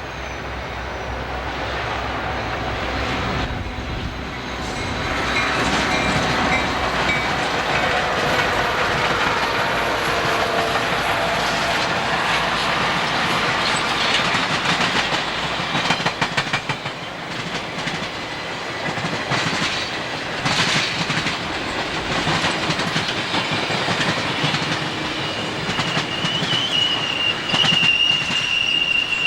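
A train rolling past, the sound building over the first several seconds, with wheels clicking over rail joints and a high wheel squeal in the last few seconds.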